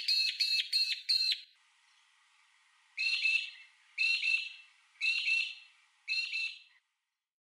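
Bird calls: a quick run of harsh, squawking calls, then after a pause four more calls about a second apart, cutting off suddenly.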